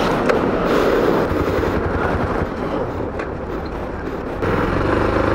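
Honda Super Cub C125's single-cylinder engine idling with a rapid, even putter, a little quieter for a couple of seconds mid-way.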